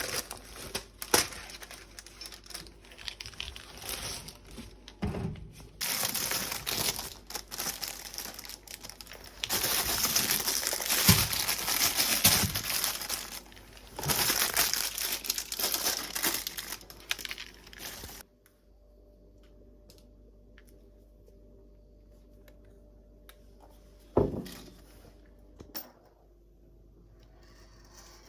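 Packaging crinkling and tearing as it is handled and opened, in rustling bursts. About two-thirds of the way through it falls quiet, apart from one sharp knock and a smaller click.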